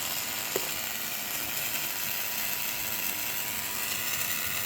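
HTP Microcut 45 plasma cutter cutting through a steel truck frame: a steady hiss.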